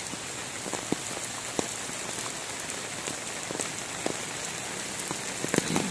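Heavy rain falling: a steady hiss of rain on the surroundings, dotted with scattered sharp ticks of nearby drops. A short cluster of louder knocks comes near the end.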